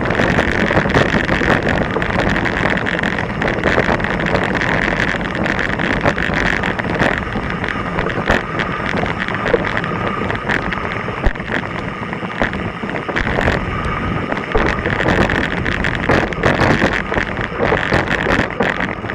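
Mountain bike riding down a rocky, loose trail: a steady clatter of tyres and bike on stones, with many sharp knocks throughout and wind buffeting the camera's microphone.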